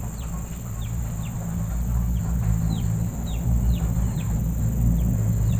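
A small bird chirping repeatedly: short downward-sliding notes, about two a second. Under it run a steady high insect drone and a louder low rumble.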